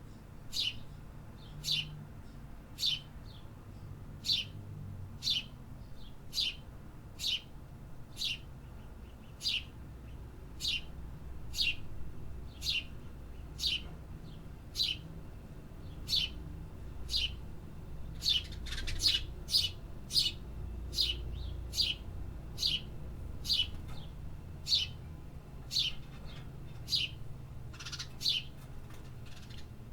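A small songbird chirping over and over, about one sharp, downward-sliding chirp a second. Around two-thirds of the way through the chirps come faster and overlap, as if a second bird joins in. A steady low rumble sits underneath.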